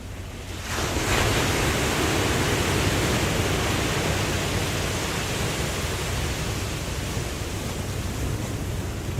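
Ocean wave breaking under a second in, a sudden loud rush of surf that slowly eases off over a low steady rumble.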